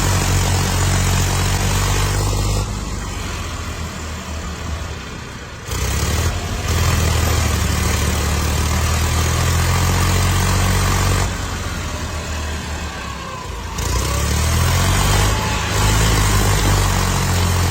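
Tractor diesel engine running heavily. Its level drops and comes back twice, and its pitch rises briefly about fourteen seconds in as it revs up.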